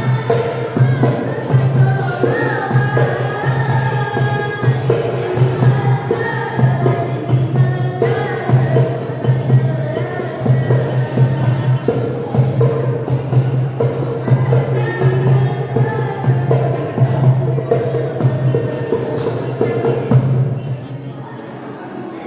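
Sholawat, Islamic devotional song, sung over a steady rhythmic hand-percussion beat. The music drops away about 21 seconds in.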